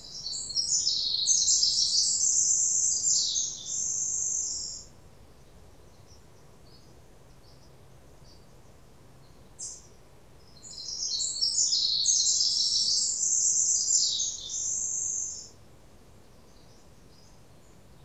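A songbird singing a long, rapid, high-pitched song twice, about ten seconds apart, each phrase lasting four to five seconds. A single brief high note comes between the two songs.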